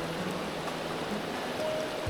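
Steady rush of a mountain stream, under background music with held low notes.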